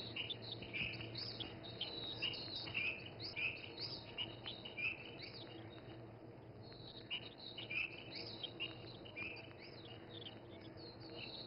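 Small birds chirping: many short, high chirps scattered and sometimes overlapping, over a faint steady hum.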